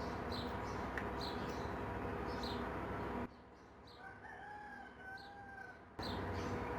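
Steady noisy hum with short high bird chirps repeating about twice a second, cut off abruptly partway through. In the quieter stretch that follows, a rooster crows once before the hum and chirps return.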